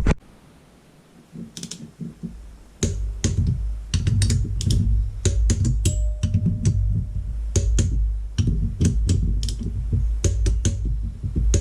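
Ratchet torque wrench clicking as it tightens the cylinder bolts on a Honda 400EX top end: an irregular run of sharp clicks, a few a second, over dull handling knocks.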